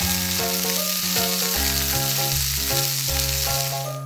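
Frying sizzle of an egg in a pan, standing in for the toy frying pan, over background music with a plucked melody and bass line. The sizzle cuts off suddenly near the end.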